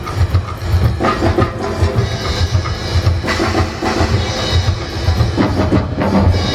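Live percussion ensemble with a drum kit playing a steady bass drum beat, with sharper hits about a second in, around three seconds in and near the end.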